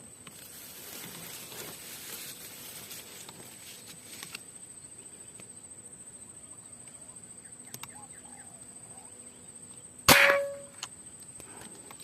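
A single air rifle shot about ten seconds in: one sharp crack with a short ringing tail, over a steady high insect drone.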